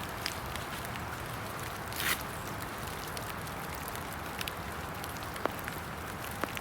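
Steady rain falling, with scattered sharp drip ticks and a short louder rush of noise about two seconds in.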